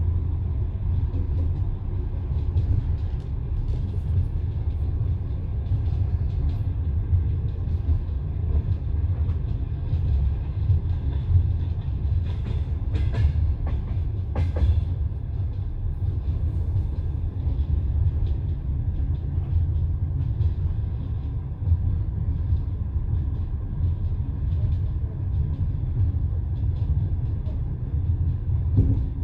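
Passenger train carriage running along the track, heard from inside the coach: a steady, deep rumble of wheels on rails, with a few sharp clicks about halfway through.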